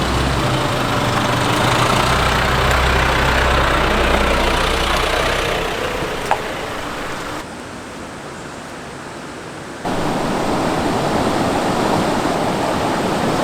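Nissan Navara NP300 driving, a steady low engine drone under tyre and road noise that fades out about five seconds in. After a short quieter stretch, an even rushing of flowing river water takes over for the last few seconds.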